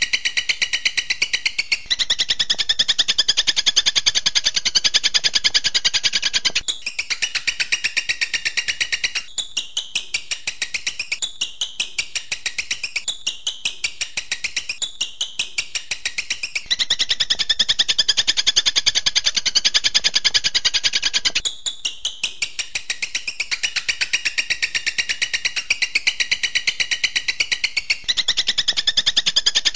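Songbird tutor (masteran) recording of fast, even trills of short high notes, repeated in long unbroken runs. The phrase changes pitch and pattern every few seconds.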